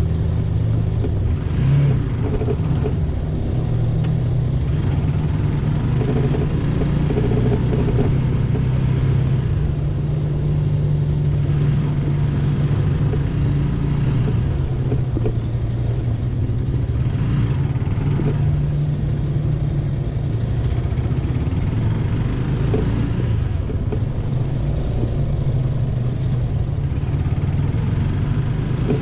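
AKT GP 180 motorcycle engine running at a steady pace under way.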